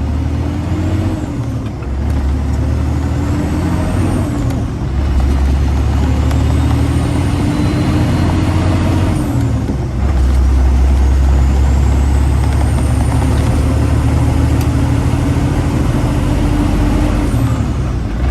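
Freightliner Classic XL semi truck's diesel engine pulling away from a stop and accelerating up through the gears: the engine note climbs, then drops back at each upshift, five times, with a faint high turbo whine rising along with it.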